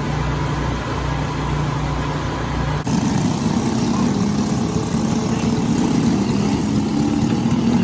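Kart engines running, likely Briggs & Stratton LO206 engines. About three seconds in, the sound changes abruptly from a steady low hum to a rougher, higher engine sound.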